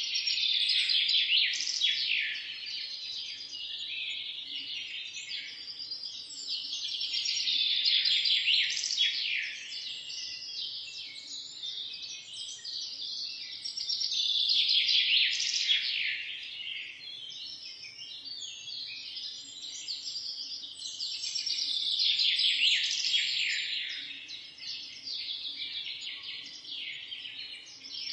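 A chorus of many small birds chirping rapidly at once, swelling louder and fading back about every seven seconds.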